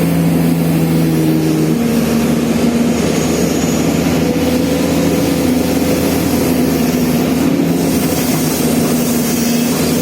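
Komatsu hydraulic excavator's diesel engine running under work, a steady loud drone whose pitch shifts a little a couple of times as the load changes.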